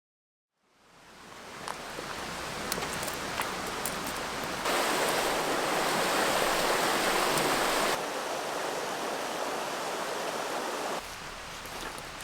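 Steady rain falling in woodland, a continuous hiss with scattered drops ticking. It fades in from silence at the start and is louder for a few seconds in the middle.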